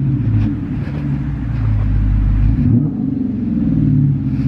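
2015 Dodge Challenger R/T's 5.7-litre HEMI V8 running through an exhaust with its mufflers cut off, a low, steady sound that shifts briefly about three seconds in.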